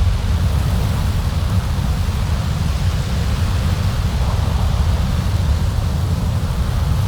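Winter storm wind blowing steadily over a mountaintop: a loud, deep rumble with a hiss above it.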